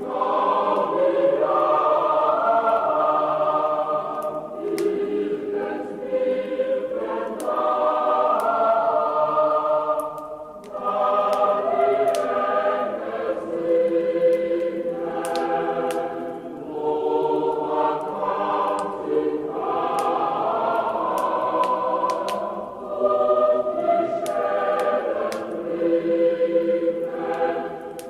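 A choir singing a Christmas carol in sustained chords, with the crackle of a wood fire in an open fireplace as scattered sharp clicks over it.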